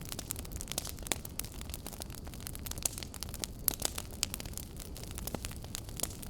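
Wood fire burning in a fireplace: steady low rumble of the flames with irregular sharp crackles and pops from the burning logs.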